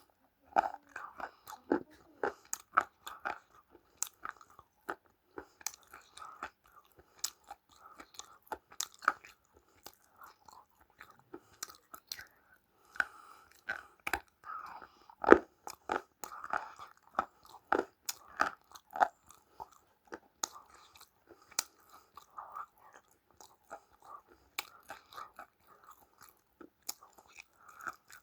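Crunchy food being bitten and chewed: a long run of irregular sharp crunches, the loudest about fifteen seconds in.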